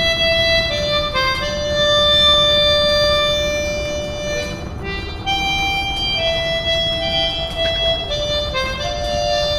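Harmonica playing a slow melody of long held notes, over a steady low rumble.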